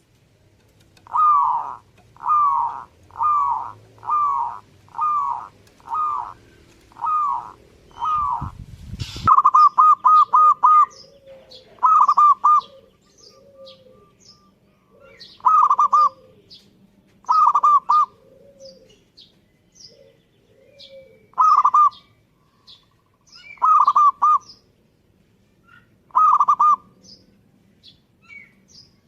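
Zebra dove (perkutut) cooing in repeated short phrases: a quick run of calls at first, a dense burst just after the middle third begins, then single phrases spaced about two seconds apart. A brief low thump sounds just before the burst.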